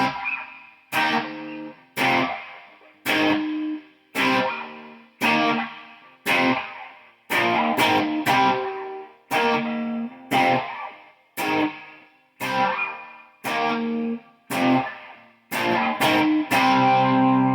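Electric guitar, an Epiphone with P90 pickups, played through an amp with effects: single chords struck about once a second, each left to ring out and fade, with a longer held chord near the end.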